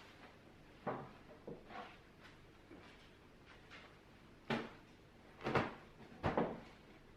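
A series of separate knocks and clunks of household objects being handled, about half a dozen, the loudest in the second half.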